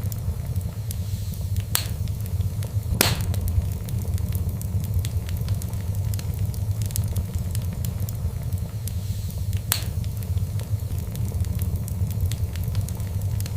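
Wood fire burning with a steady low rumble and scattered crackles and pops, one sharp pop about three seconds in.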